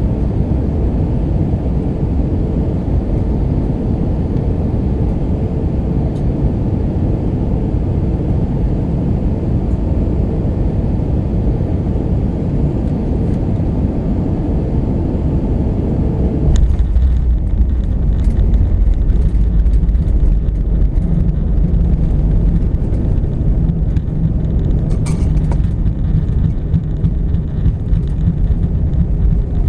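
Airbus A319 cabin noise on final approach: a steady roar of engines and airflow. A little over halfway through it changes suddenly to a heavier low rumble with rattles and clicks, typical of touchdown and the wheels rolling down the runway.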